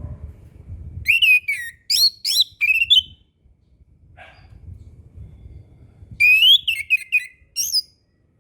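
Chestnut-capped thrush (anis kembang) singing two short phrases of clear, quickly sweeping whistled notes, the first about a second in and the second near the end, over a faint low rumble.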